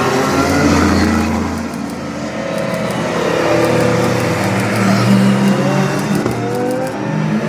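Several race car engines passing close by one after another at formation-lap pace, their overlapping notes rising and falling as each car goes past.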